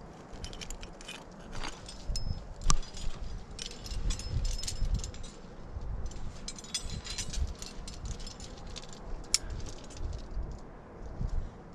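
Metal climbing gear, such as carabiners and hardware on a harness, clinking and jangling in irregular bursts, over low rumbling thumps of movement against the camera.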